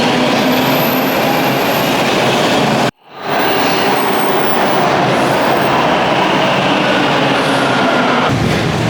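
Subway train running at speed, a loud steady rumble and rattle of the rail car. The sound cuts out for an instant about three seconds in and comes straight back.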